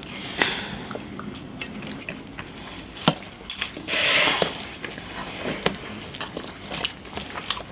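Serving spoon and utensils clinking and scraping against plates and serving bowls as food is served, with scattered light clicks and one longer, louder scrape about four seconds in.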